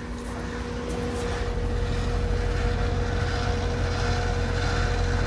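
Lennox 14HPX 2-ton heat pump outdoor unit running in cooling mode: condenser fan and Copeland scroll compressor giving a steady hum over a low rumble that grows louder over the first couple of seconds, then holds.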